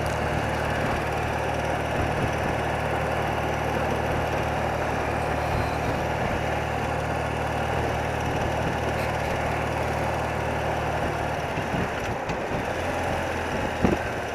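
Engine of a 30-year-old BMW motorcycle running steadily under way, heard from the saddle with a steady rush of road and wind noise; the engine note changes and drops about twelve seconds in.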